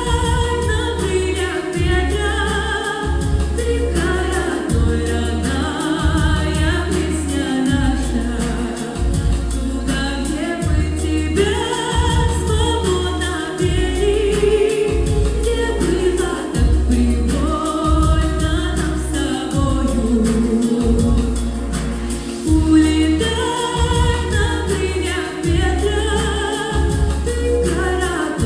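A song sung by a woman with accompaniment, over a heavy bass line of held low notes that changes every second or two.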